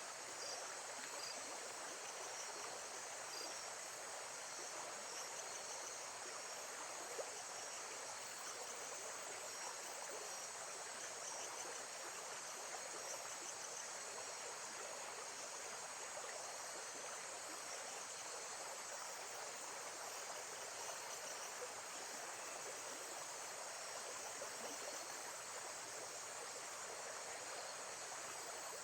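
Nature ambience of steadily running water, with insects chirping faintly in small high-pitched repeated bits.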